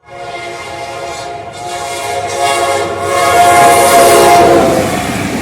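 General Electric diesel locomotive's air horn sounding one long chord, growing louder about three seconds in as wheel and rail noise rises underneath, the chord dropping slightly in pitch near the end as the train passes.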